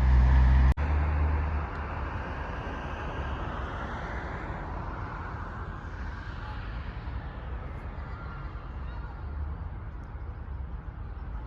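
Road traffic noise: a vehicle's low rumble, then a steady hiss of traffic with a vehicle passing by a few seconds in.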